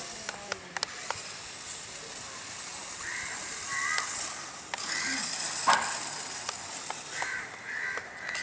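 Crows cawing several times over a steady high hiss, with scattered sharp clicks and one louder rasp about two-thirds of the way through.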